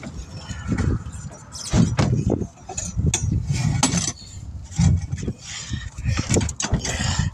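Metal hand tools clinking, knocking and scraping against a wheel and tire during manual tire work, in short irregular clatters over a low rumble.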